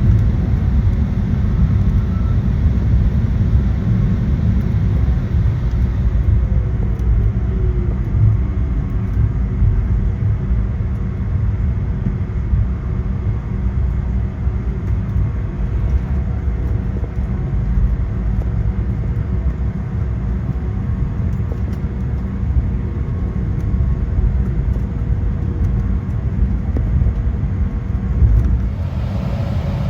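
Cabin rumble of an Embraer 175 regional jet taxiing after landing: a steady low rumble from the engines and the wheels rolling on the taxiway. A faint whine slides down in pitch about seven seconds in.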